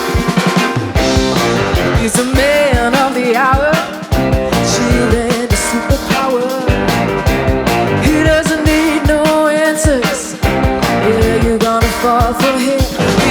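A live rock band playing in a psychedelic rock style: drums, keyboards and electric guitar, with a lead melody that wavers in pitch.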